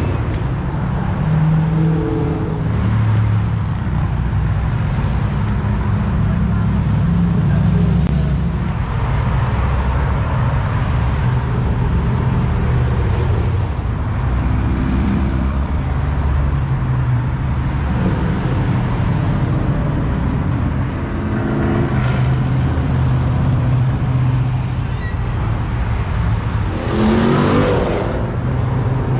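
Car engine running steadily, its pitch shifting up and down, with a rising rev about two seconds before the end.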